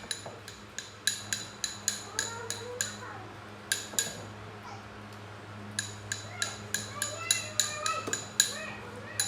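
Light, ringing clinks of hard objects striking, like metal or dishware being tapped, about three or four a second in two runs with a pause between. Faint chirping calls and a steady low hum run underneath.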